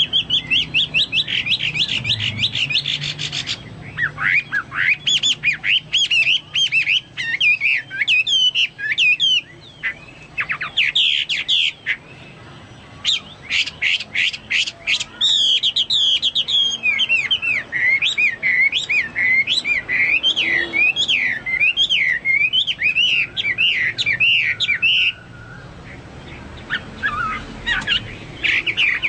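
Chinese hwamei singing in full voice: fast runs of repeated whistled notes and quick rising-and-falling phrases, varied from one run to the next, in a style likened to a cucak Papua or cucak mas. The song pauses briefly about twelve seconds in and again a few seconds before the end.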